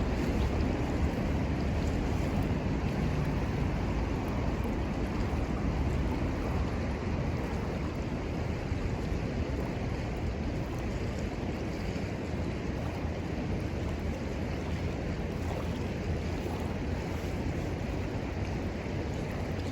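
Steady rushing of river water, with wind rumbling on the microphone.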